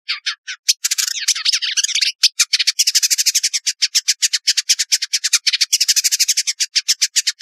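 Village indigobird singing: quick, high warbled and chattering phrases, then from about two seconds in a long fast run of rapid, evenly repeated notes.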